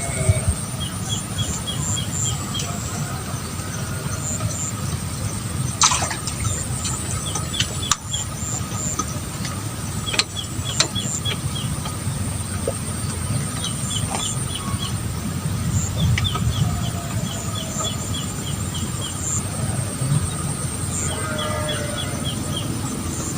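Bird chirps in quick runs of five or six short notes, recurring over a steady low rumble, with a few sharp clicks.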